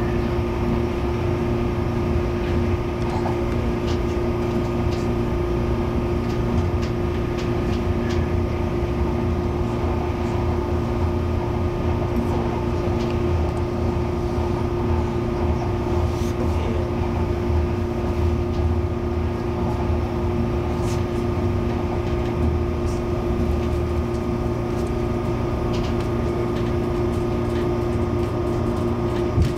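MTR Airport Express CAF train heard from inside the car: a steady hum with several constant tones over a low rumble, unchanging throughout, with a few faint clicks.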